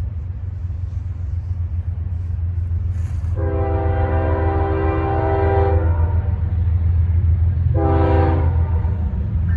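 A train's locomotive air horn sounds a chord, one long blast and then a short one, over the low rumble of the train, which grows louder as it approaches.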